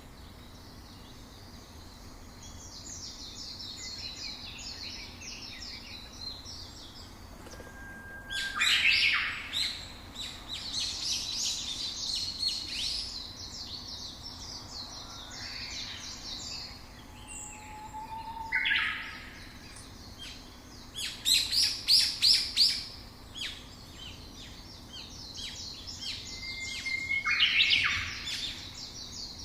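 Several songbirds chirping and singing, with rapid high trills running throughout and a few louder bursts of calls, the loudest about nine seconds in, around twenty-two seconds in, and near the end.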